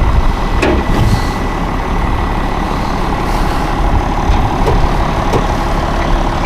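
Tractor engine running steadily at low speed, a deep even rumble, with a couple of faint metallic clicks.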